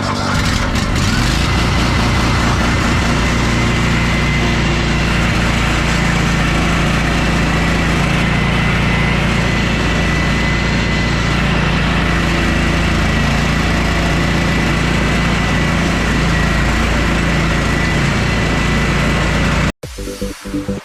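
Engine of a piece of landscaping equipment revving up from idle about a second in, then running steadily at high speed with a thin steady whine over it. It cuts off suddenly near the end.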